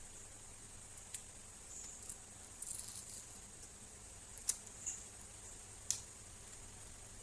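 Small sharp clicks and light scraping from laptop parts being handled during disassembly, about six clicks spread out, the loudest a little past halfway, over a steady faint hiss.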